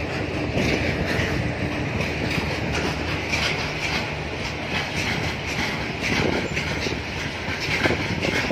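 Freight train of open box wagons rolling past close by: a steady rumble of wheels on the rails, with irregular clicks and clatter from the wheels.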